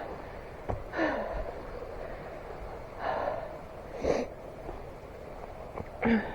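A hiker out of breath, breathing hard: four heavy, gasping breaths a second or two apart.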